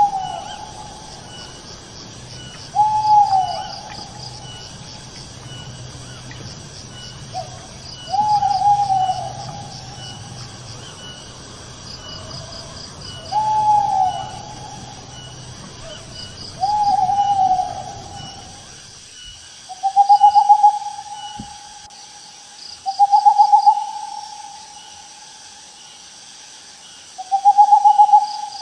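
An owl hooting: single hoots of about a second each, repeated every three to five seconds. The earlier hoots arch up and fall in pitch, and the last three, about two-thirds of the way through, are steadier and slightly rising. Crickets chirp in quick pulses behind them.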